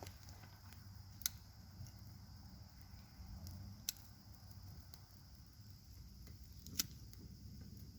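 Small wood campfire crackling faintly, with three sharp pops spread a few seconds apart.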